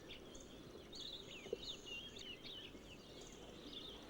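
Faint forest ambience of small birds chirping and twittering, with a high insect trill that comes and goes a few times.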